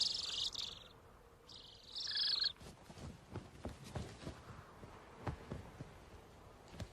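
A bird's high, rapidly rattling call, heard twice: the first is already under way and stops about a second in, and the second comes about a second and a half in. After that there are only faint scattered ticks.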